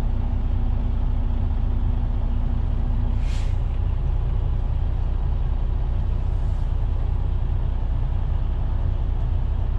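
Semi truck's diesel engine running, a steady low rumble heard from inside the cab, with a short burst of air hiss about three seconds in and a fainter one about six seconds in.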